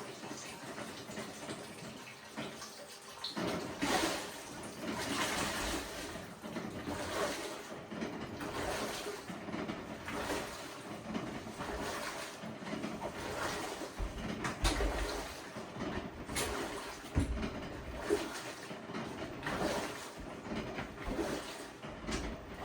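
LG WT7600HVA top-load washing machine during its wash, water swishing and sloshing in the tub in uneven surges every second or two.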